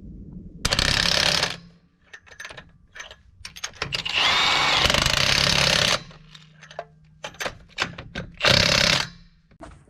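Impact wrench running lug nuts onto a truck wheel in three bursts: a short one about a second in, a longer one of about two seconds in the middle, and a brief one near the end. Clicks and knocks of the socket and nuts come between the bursts.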